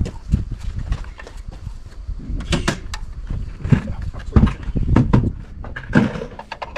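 A series of irregular knocks and clunks from parts and tools being handled, five or so spread over a few seconds.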